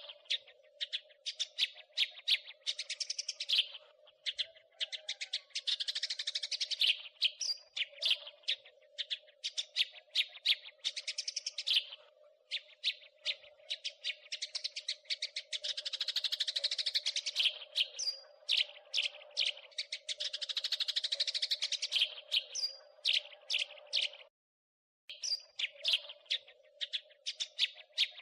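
House sparrows chirping and chattering: fast runs of short, sharp chirps with bursts of dense churring chatter. A steady faint hum lies underneath, and the sound cuts out completely for under a second about 24 seconds in.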